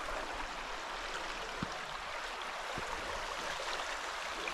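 Creek water running steadily over rocks, with two faint knocks in the middle.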